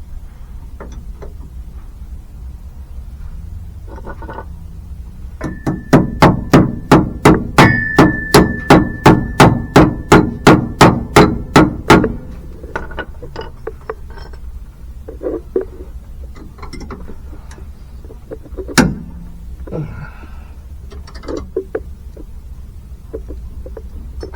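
Hammer blows on metal, about three a second for some six seconds, each ringing, while freeing a rusted bolt on a brake master cylinder. Scattered light knocks follow, then one more sharp knock.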